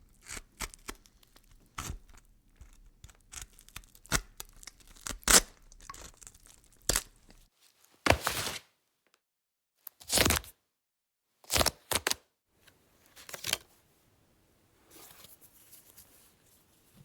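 Irregular crackling and crinkling clicks for the first several seconds, then a run of short, rough tearing sounds: four strong ones about a second and a half apart and a fainter stretch near the end.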